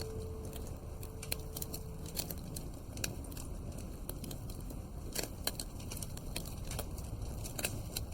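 Wood fire crackling in a fireplace: irregular sharp pops and snaps over a steady low noise. A single held tone fades out about two seconds in.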